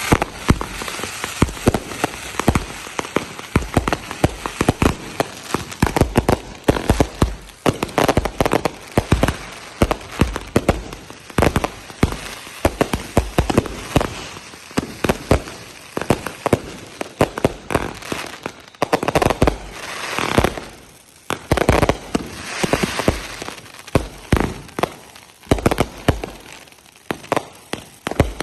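Fireworks going off in quick, irregular succession: many sharp bangs and crackles, some overlapping, with a short lull about halfway through.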